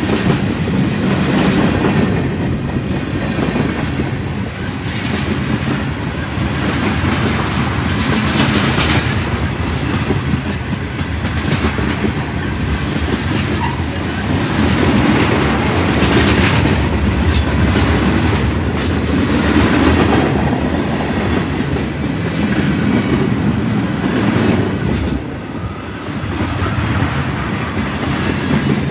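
Freight cars of a long mixed freight train rolling past close by, their wheels rumbling and clacking steadily over the rails.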